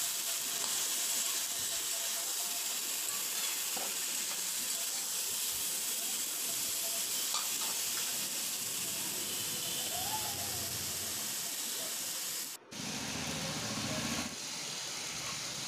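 Mixed vegetables sizzling steadily in hot oil in a kadai as they are sautéed and stirred. The sizzle cuts out for an instant near the end.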